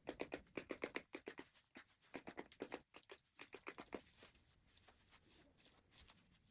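A quick, irregular run of light taps and clicks, several a second, for about four seconds, then fading to a few faint ones.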